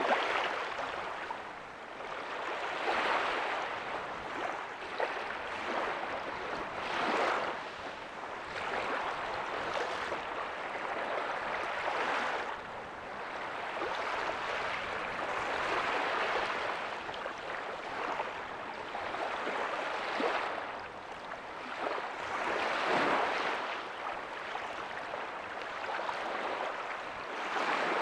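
Small ocean waves breaking and washing up a beach: a steady hiss of surf that swells and falls back every few seconds.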